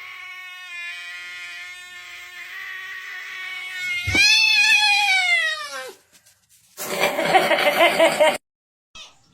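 Cat yowling: a long, steady drawn-out call, then a louder wail about four seconds in that rises and falls. It ends in a short, harsh, rough-sounding screech near the end.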